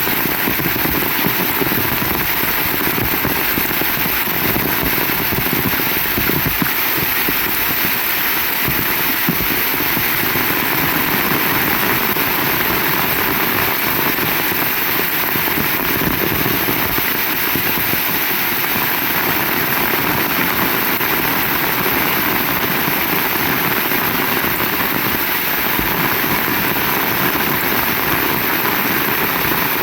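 Heavy rain falling steadily, a dense unbroken hiss and patter.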